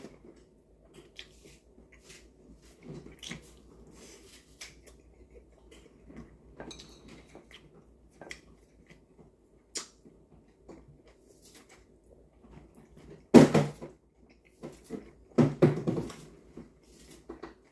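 Scattered light clicks and knocks of dishes and utensils at a meal table, with two louder, longer bursts of sound near the end.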